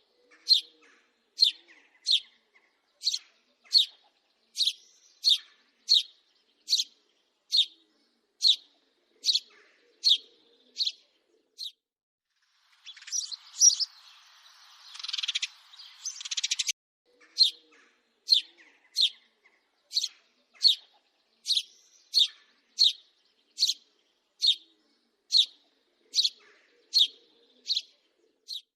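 House sparrow chirping: a long run of short, sharp chirps repeated about one and a half times a second. About halfway through comes a few seconds of denser, harsher chatter before the steady chirping resumes.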